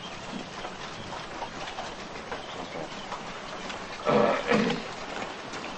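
A flock of caged laying quail chirping and calling, many short faint calls over a steady background. About four seconds in comes a loud two-part sound with a low, voice-like pitch.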